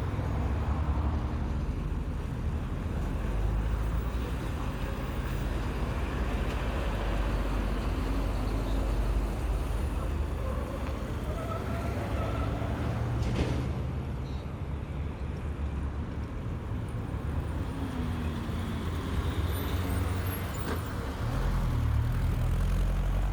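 Heavy trucks' diesel engines running low and steady as they turn, with road traffic noise around them. A single short, sharp knock comes about halfway through.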